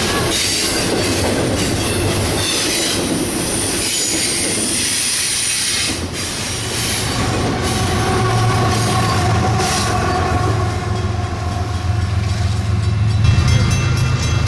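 A train rolling past on the rails with wheels squealing. From about halfway a deep, steady diesel locomotive drone comes in and grows louder toward the end.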